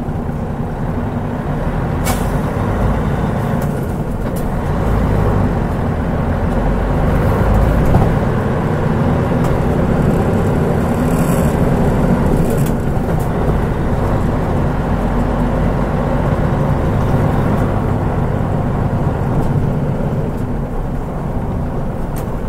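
Mitsubishi Fuso Aero Star city bus with its 6M70 turbocharged straight-six diesel running under way, a steady deep engine and road rumble that swells for a few seconds early on. A short hiss of air comes about halfway through.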